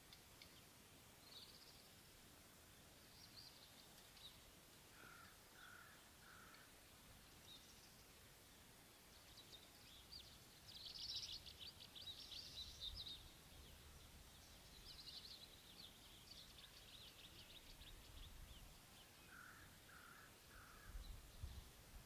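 Faint bird calls: bursts of high, fast twittering chatter several times, loudest about ten to thirteen seconds in, and twice a group of three short, lower notes. A low rumble runs underneath at times.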